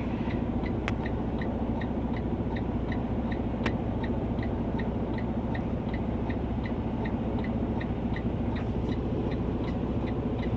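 Steady low hum of an idling vehicle engine, with a short high electronic beep repeating evenly a little over twice a second.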